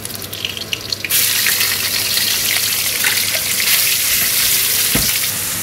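Raw pork hitting hot oil in a steel wok and sizzling, the hiss jumping up suddenly about a second in and holding steady, with a dull knock near the end.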